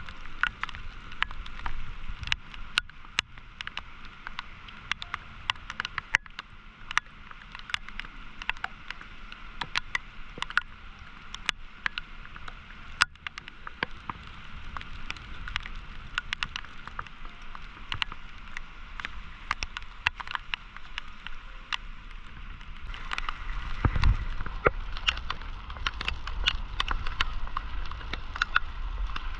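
Flood-swollen river rushing as a steady hiss, with many irregular sharp ticks scattered through it. A low rumble swells in about 24 seconds in.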